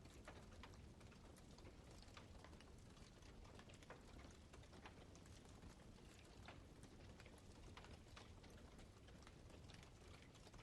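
Campfire crackling softly, with many small irregular pops and snaps over a low, steady rumble of burning wood.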